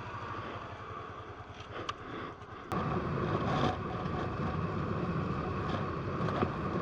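Honda PC800's V-twin engine idling, then a sharp click a little under three seconds in, after which the engine is heard running on the road, louder, with wind noise on the microphone.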